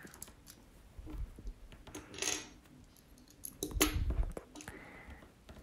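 Plastic LEGO pieces clicking and rattling as they are handled and pressed together, with a few faint clicks and a louder cluster of clicks about four seconds in.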